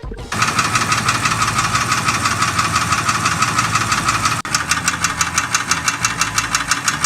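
Porsche engine running with a rapid, regular metallic ticking knock, a sign of an internal engine fault.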